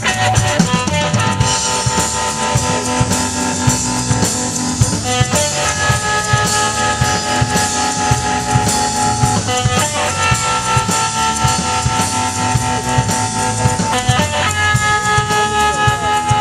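Live blues-rock band playing an instrumental stretch: a steady drum kit beat and bass under an electric guitar holding long sustained notes that change about every four to five seconds.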